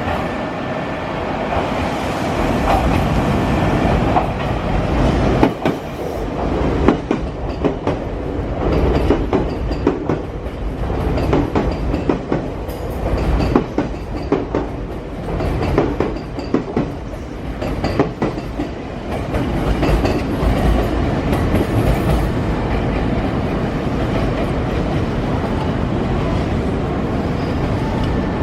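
Nankai electric train running past on the track, its wheels clacking over the rail joints, with a steady roar that eases toward the end.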